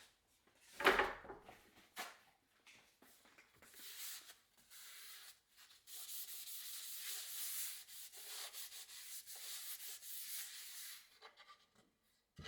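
A knock about a second in, then several seconds of steady rubbing or scraping that swells and dips, as in kitchen work.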